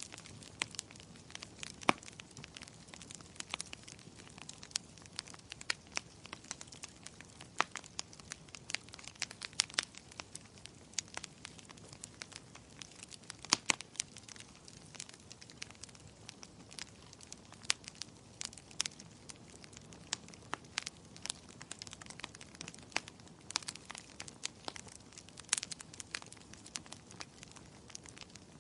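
Wood fire crackling in a fireplace: irregular sharp pops and snaps, a few louder ones among them, over a soft steady hiss of burning.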